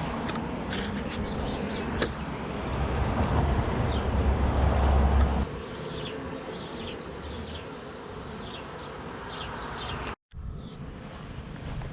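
Buzzing of a honeybee swarm at a nuc box, under a low rumble that is loudest in the first five seconds and stops abruptly. The sound cuts out for a moment about ten seconds in.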